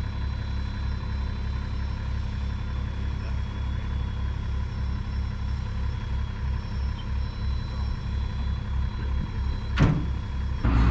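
8.3L Cummins inline-six diesel of a 6x6 5-ton army truck idling with a steady, even low beat. A single sharp knock near the end, then the engine gets louder right at the end.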